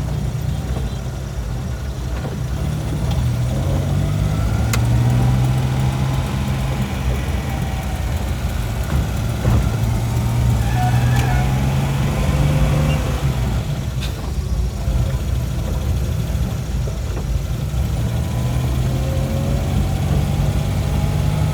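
Motor vehicle engine running steadily, its low hum swelling and easing several times, with a couple of sharp clicks.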